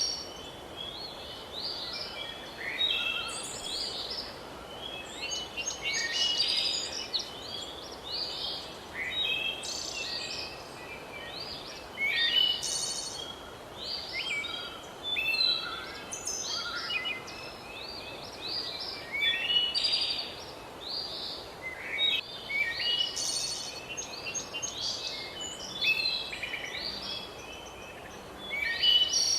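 Several birds singing and calling at once, a dense run of overlapping chirps and short song phrases over a faint steady hiss.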